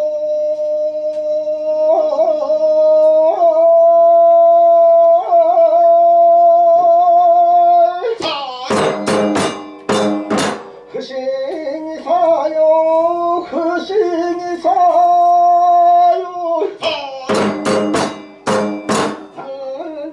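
Kagura chant sung on long held, slightly wavering notes, twice broken by a cluster of rapid percussion strikes from the kagura ensemble's drum and cymbals.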